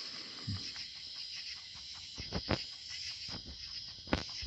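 Steady high-pitched chorus of night insects such as crickets, with a few soft knocks about two and a half and four seconds in.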